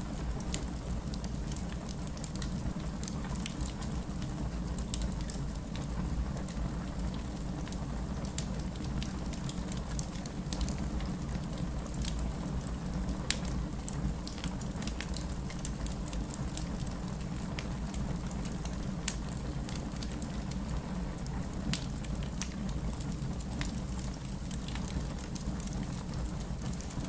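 Wood fire crackling: a steady low rush of burning logs with frequent sharp, irregular pops and crackles.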